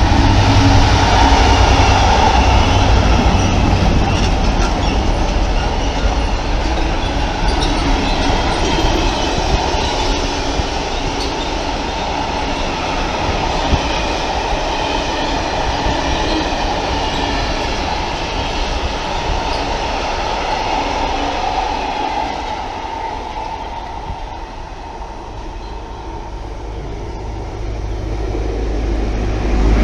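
GBRf Class 66 diesel freight locomotive passing through at speed with a long train of box wagons: the locomotive's two-stroke diesel engine and the wagons' wheels rumbling and clattering over the rail joints, with some wheel squeal. The sound is loudest at the start and eases off as the wagons go by, then builds again in the last few seconds as a Class 43 HST approaches.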